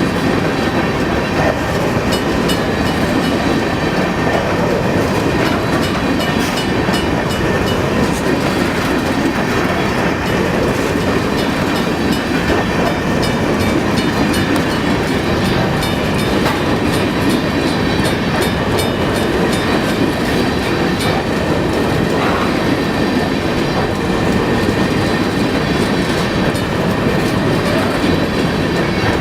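Freight train of hopper cars rolling past at steady speed: a continuous loud rumble of wheels on rail with faint clicking from the wheels and rail joints.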